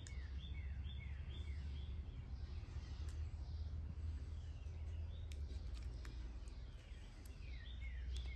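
Small birds chirping: a quick run of short, falling chirps in the first second or so and another run near the end, over a steady low rumble of outdoor background noise. A few faint clicks in between.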